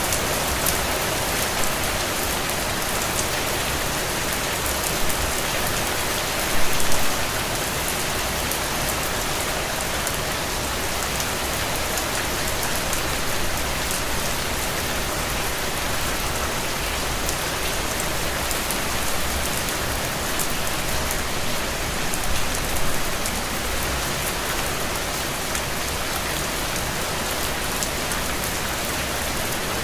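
Steady rain falling on a window pane, a dense even hiss with individual drops ticking through it. A few brief louder gusts of heavier drops come in about seven seconds in and again past twenty seconds.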